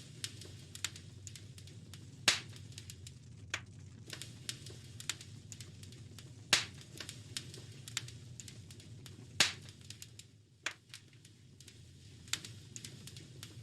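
Wood fire crackling in a fireplace: a steady low rumble of flames under a constant scatter of small snaps, with three loud pops, about two, six and a half, and nine and a half seconds in.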